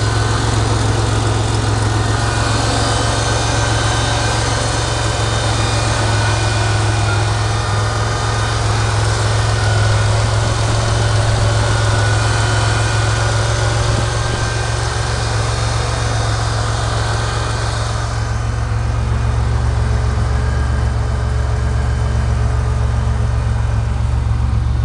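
Buick 3.8 turbo V6 from a 1987 Grand National idling smoothly and steadily, a quiet, even idle the owner calls running like a sewing machine. A higher hiss over the engine note drops away about eighteen seconds in.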